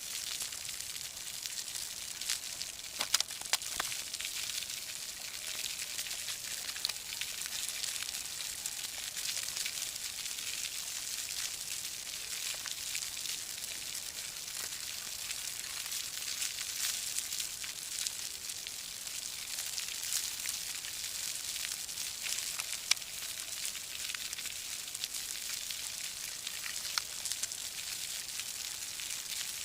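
A brood of day-old broiler chicks cheeping together, a dense, steady high-pitched chatter, with scattered sharp clicks.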